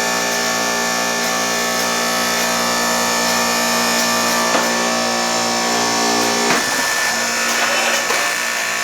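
Electric motor-driven shop machine running steadily with a whine of many even tones. About six and a half seconds in, its lower tones drop away while the higher whine carries on.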